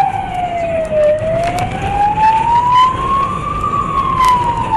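Police siren on a slow wail, its pitch sweeping down, up and back down over a few seconds, over the rumble of the moving pursuit vehicle.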